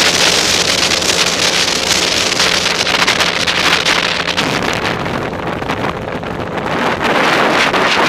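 Heavy wind rush over the microphone of a moving motorcycle, with the bike's engine running at a steady speed. About four seconds in, the engine's steady note drops away and the wind eases, then the wind rush builds again near the end.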